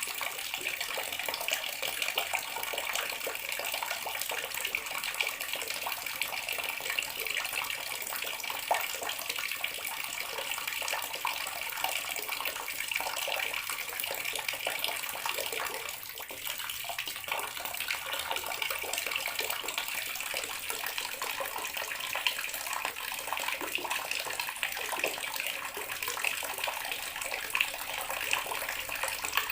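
Water tap running steadily into a bathroom sink, a continuous splashing stream with a slight dip in level about halfway through.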